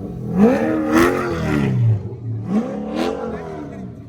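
A car engine revving hard in two long sweeps, each rising and then falling over about a second and a half, with a rush of noise at the peak of each.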